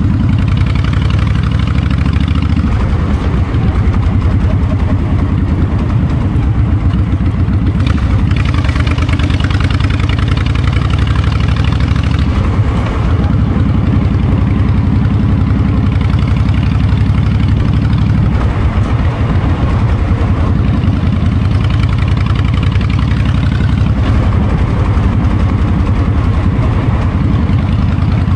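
Honda VTX 1300's V-twin running through its exhaust, a steady low pulsing beat, with wind noise on the microphone.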